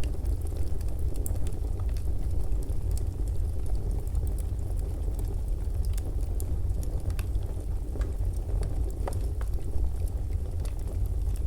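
Wood fire crackling in a fireplace: a steady low rumble with scattered sharp pops and crackles.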